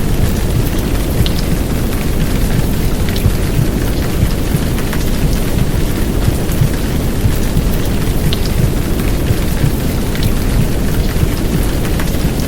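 Heavy downpour of rain blended with a deep, steady rumbling noise of the kind used in womb-sound recordings for babies, with scattered sharp drop ticks over the top.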